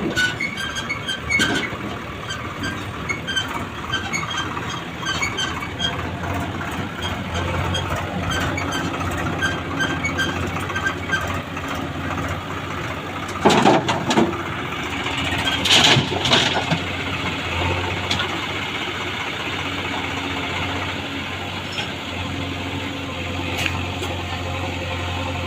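Diesel engine of farm machinery running steadily at idle, with a light ticking about twice a second in the first half. Two short, loud noises come about 13 and 16 seconds in.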